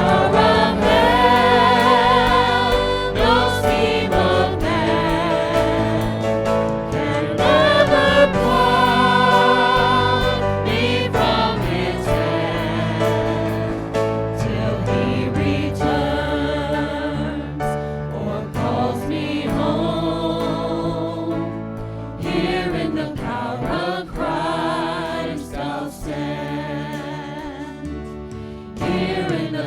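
Church worship music: a group of voices singing a worship song over instrumental accompaniment, with vibrato on the held notes. It grows somewhat quieter in the last third.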